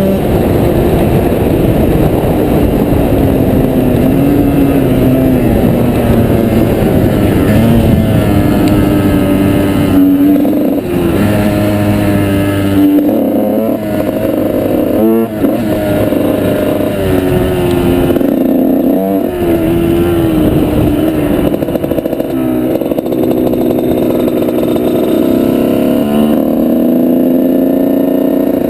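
Off-road motorbike engine running under load over rough ground. The revs keep rising and falling with the throttle, with a few quick drops and pick-ups of revs in the second half.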